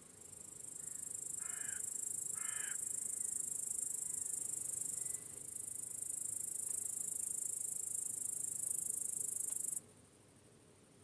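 A loud, very high-pitched insect trill, a rapid pulsing buzz in a meadow, swells in, dips briefly about halfway and stops abruptly near the end. Early on a bird gives two short caws about a second apart.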